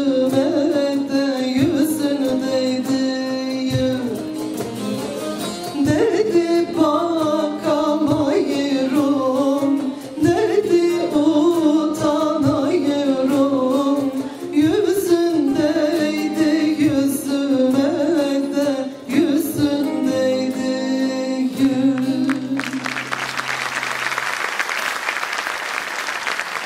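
Turkish folk song sung to plucked saz accompaniment; the song ends on a held note about 22 seconds in and the audience breaks into applause.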